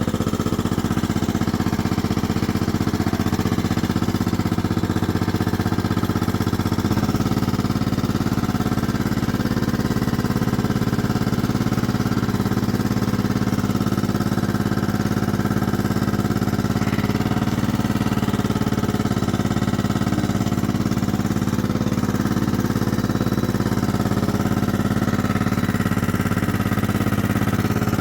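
1998 Kohler Command 16 hp lawn mower engine running steadily, its note shifting slightly about seven seconds in. The engine has just been started for the first time after sitting for a year.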